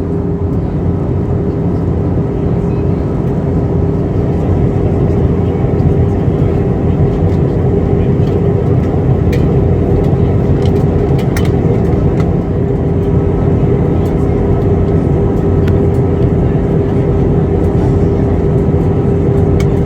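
Steady cabin noise of a jet airliner in flight, heard from inside the cabin: a constant rush of engine and airflow with one steady hum tone running through it.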